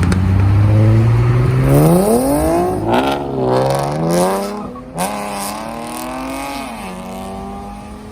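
Car engine revving hard as it accelerates away. Its pitch climbs steeply about two seconds in and wavers, drops sharply at a gear change about five seconds in, and climbs again before falling back to a steady lower note as it fades.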